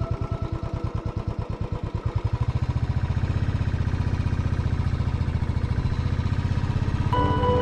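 Motorcycle engine running with an even low pulsing, which grows quicker and louder about two seconds in as the bike picks up speed.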